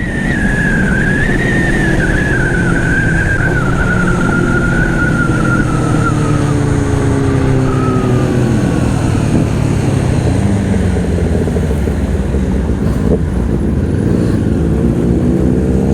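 Honda CBR500R parallel-twin motorcycle engine running under a heavy rush of wind on the helmet microphone, the engine note and a high whine dropping as the bike slows in the first half; near the end the revs rise again.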